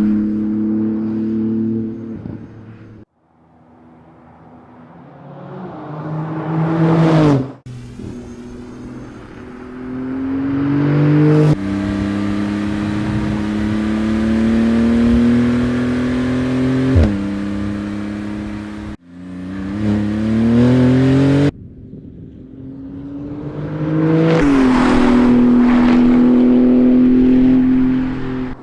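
2018 Porsche 911 GT2 RS's twin-turbo 3.8-litre flat-six running and accelerating in a series of short cuts. The engine pitch climbs and falls as the car speeds up and eases off, and the sound changes abruptly between cuts.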